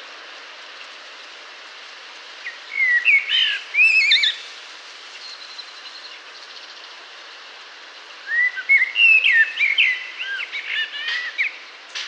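A bird singing two quick phrases of warbling, whistled notes, one about two and a half seconds in and another about eight seconds in, over a steady background hiss.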